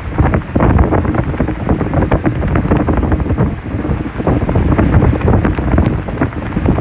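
Strong tropical-storm wind buffeting the microphone in loud, gusty, low rushes, over storm-surge waves washing in.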